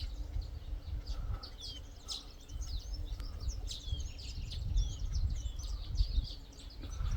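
Small garden birds chirping and twittering in quick, high, down-sweeping notes, many overlapping through the whole stretch, over a low rumble.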